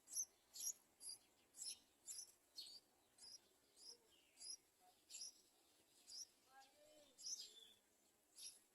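Yellow-vented bulbuls giving short, high-pitched chirps, faint but clear, repeated about twice a second in an even series.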